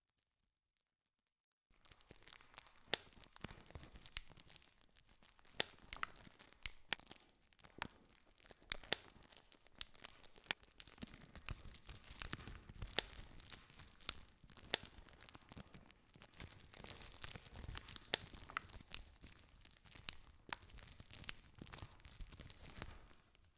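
Campfire crackling, with many sharp pops and snaps over a steady hiss of burning wood. It starts abruptly about two seconds in after a moment of dead silence and dies away just before the end.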